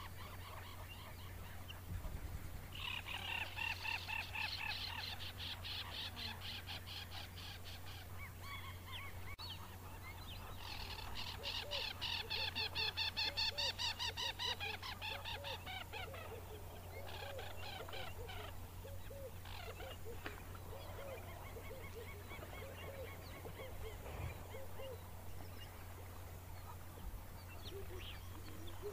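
Birds calling: two long runs of rapid, repeated harsh notes, about four a second, the first starting about two seconds in and the second near the middle, then softer scattered calls, over a steady low hum.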